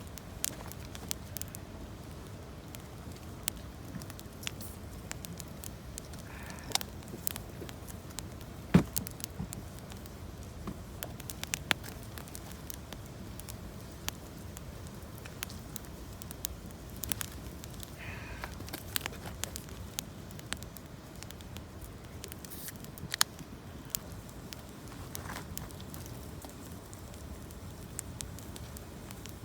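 Campfire of gathered branches and fallen leaves crackling, with irregular sharp pops; the loudest pop comes about nine seconds in.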